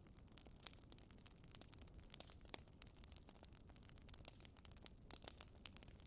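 Wood fire crackling faintly: irregular sharp pops and snaps, a few louder ones scattered through, over a low steady rumble of the burning fire.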